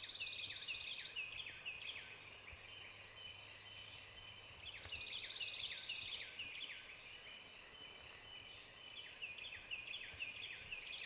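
Songbird singing the same phrase three times, about five seconds apart: a high, buzzy trill followed by a quick run of down-slurred notes.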